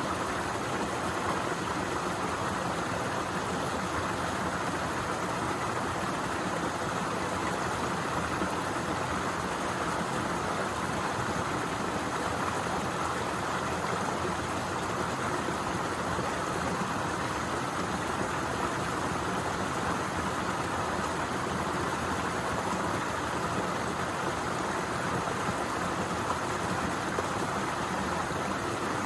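Waterfall: falling water rushing in an even, unbroken hiss with no change.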